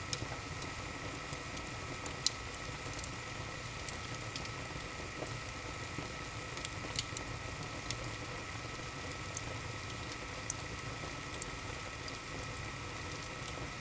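Wood fire burning in a fireplace: a steady hiss with irregular sharp crackles and pops from the burning wood.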